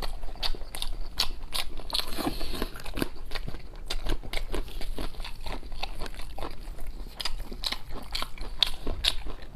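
A person chewing braised pig's head meat and raw garlic close to the microphone, with irregular wet clicks, crunches and lip smacks.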